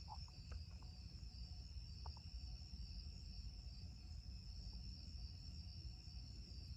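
Hampton Bay Huntington II ceiling fan running on low speed: a faint, steady low hum with a steady high-pitched ring above it.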